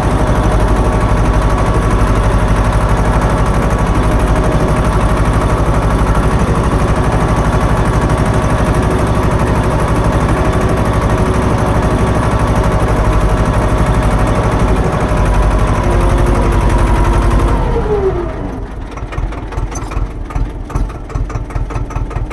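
Swaraj tractor's diesel engine running steadily at working revs. About 18 seconds in it is throttled back, its pitch falling, and it settles into a slower, quieter idle chug.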